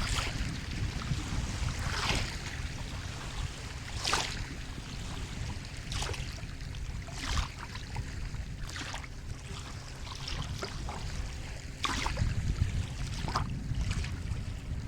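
Sea water lapping and splashing, with short sharp splashes every second or two over a steady low rumble of surf.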